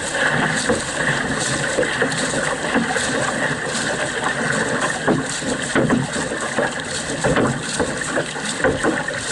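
Canoe under paddle: a steady rush of water along the hull, with irregular splashes of paddle strokes and some wind on the microphone.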